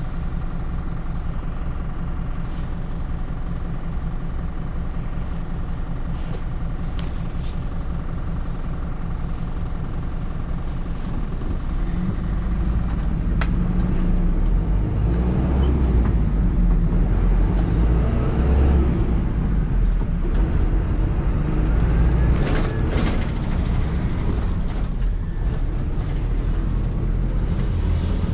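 City bus engine running steadily at first; about twelve seconds in it grows louder and its pitch shifts as the bus pulls away and accelerates, with a sharp click soon after.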